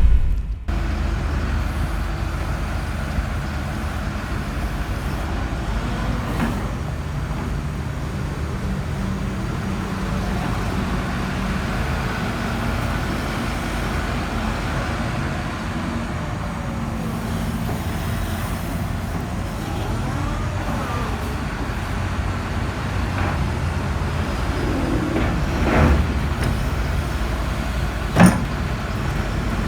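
Doosan DX140W-5 wheeled excavator's DL06 diesel engine running steadily at idle, with a single sharp knock near the end.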